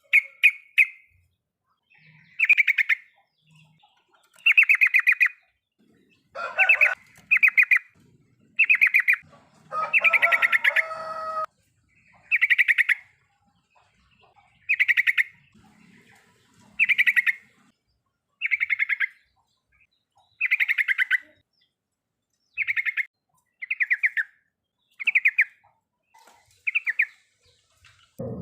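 Yellow-vented bulbul (trucukan) giving its 'riwikan' call: short, rapid chattering trills repeated about every one to two seconds, a couple of them fuller with lower notes mixed in.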